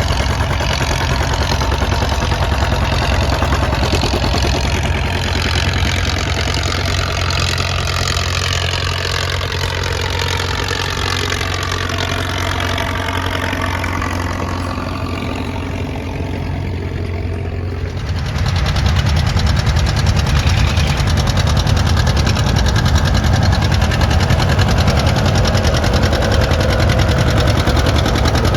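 Antique tractor engines running steadily while plowing, with pitch lines that slide down slowly through the first half. About two-thirds of the way in, a louder, deeper engine sound takes over suddenly and holds steady.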